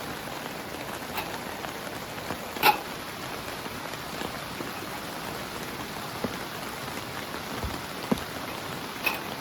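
Heavy rain falling steadily on a tent, with a few louder single drops striking; the loudest comes about two and a half seconds in.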